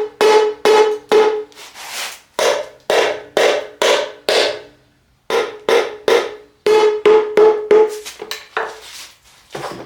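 A mallet striking the stamped oil pan of a Nissan VG30DETT V6, two or three blows a second in runs with short pauses. Each blow sets the pan ringing briefly at one steady pitch. The blows are meant to break the pan free of its liquid-gasket sealant.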